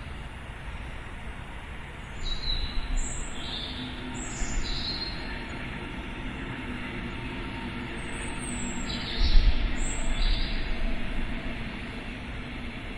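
Small birds chirping in short falling notes, in a group about two seconds in and another near the ninth second, over a steady low rumble of distant city noise that swells louder twice.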